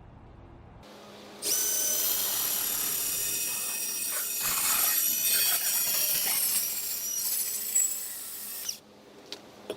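A bandsaw cutting through steel exhaust pipe, separating the factory X-pipe. It starts about a second and a half in, runs steadily with a high metallic ringing, and stops shortly before the end.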